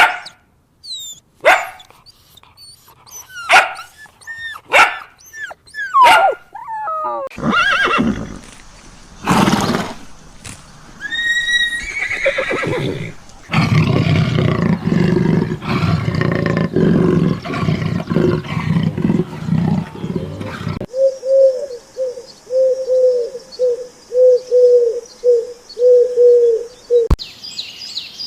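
A run of different animal calls cut one after another: short calls with sliding pitch at first, a long low, dense stretch in the middle, then a string of about a dozen short, evenly repeated calls near the end.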